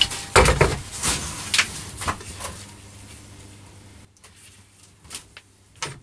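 Metal workshop tools clattering and knocking as they are handled while a hammer is fetched: a quick run of knocks in the first two and a half seconds, then a few fainter clicks near the end.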